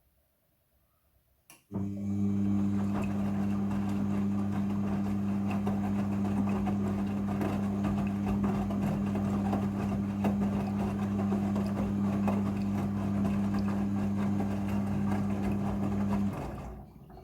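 Midea front-loading washing machine during its rinse cycle: a click, then a steady electric hum with water noise for about fifteen seconds, cutting off near the end.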